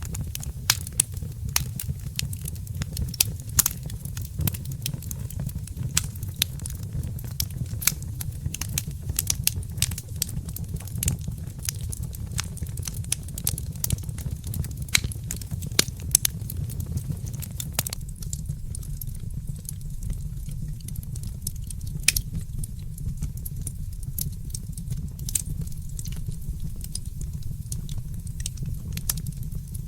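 Wood fire crackling, with frequent sharp pops and snaps over a steady low rumble; the pops thin out about two thirds of the way through.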